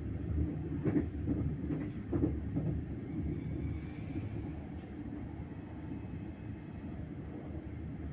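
Train running on the rails with a steady low rumble. Knocks come about one and two seconds in, and a brief high hiss about four seconds in.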